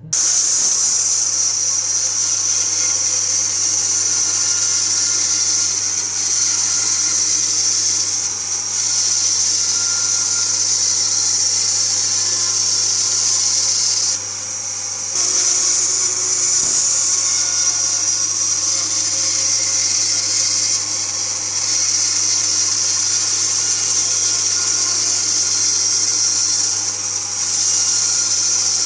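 Handheld electric power tool running steadily on pine, a continuous high hiss over a low motor hum, with a brief drop in level about fourteen seconds in.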